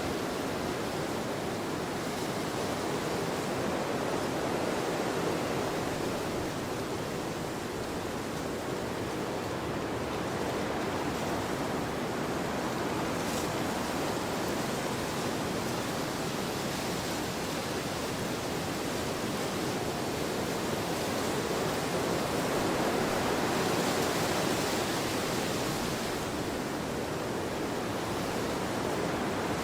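Wind blowing across a field: a steady rushing that swells in slow gusts, most strongly near the end.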